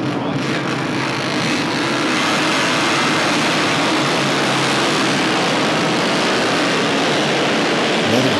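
Racing motorcycles running at speed on the circuit, a loud, steady engine din.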